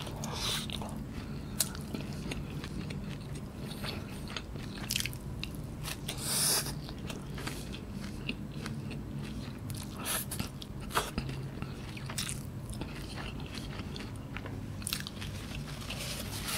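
Close-miked biting and chewing of cheese kunafa, shredded kataifi pastry with mozzarella. Scattered soft crunches and mouth clicks sound over a steady low hum.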